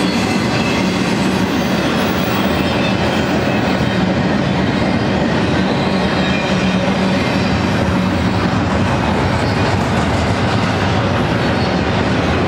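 Double-stack container freight train of well cars rolling past close by: a loud, steady rolling noise of steel wheels on rail.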